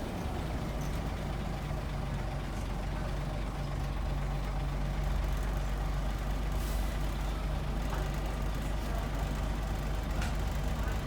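Scania N94UB single-decker bus engine running with a steady low drone, its pitch holding level. A brief faint hiss comes about two-thirds of the way through, and a couple of light clicks come near the end.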